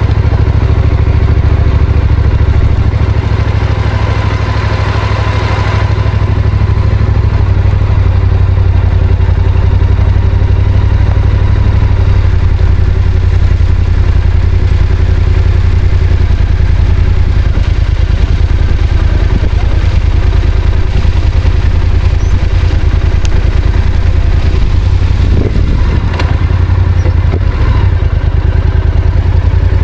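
Yamaha Ténéré adventure motorcycle's engine running steadily under way, a loud, even low drone.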